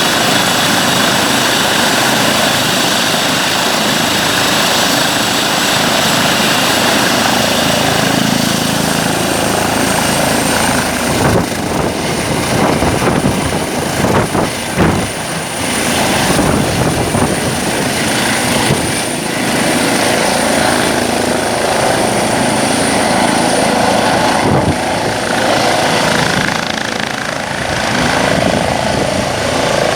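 Eurocopter EC135 T2 helicopter running close by: the rush of its main rotor and the high whine of its twin Arrius 2B2 turboshaft engines. The whine rises slightly about a third of the way in. Around the middle there is a stretch of gusty buffeting.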